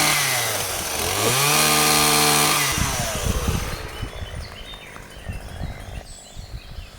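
Chainsaw revving twice, its pitch climbing and falling back, held high for a moment. About three seconds in the revving stops and only a quieter, uneven low sputter is left.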